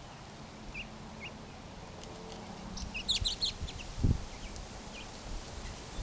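Small birds at a backyard feeder giving short high chirps, a few scattered and then a quick burst of them about three seconds in. A dull low thump about four seconds in.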